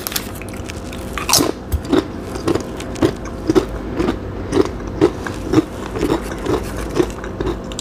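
Close-miked chewing of a mouthful of brisket cheddar sandwich: steady, even chews about twice a second.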